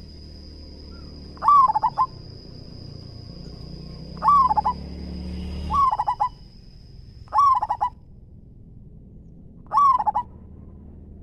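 Zebra dove (perkutut) singing five short, loud cooing phrases, each a clear note followed by a quick stuttering run of notes.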